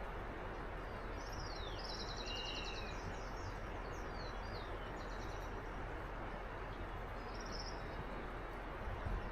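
Several birds calling: quick high downward-sweeping chirps and short rapid trills, mostly in the first three-quarters, over a steady even hiss of background noise.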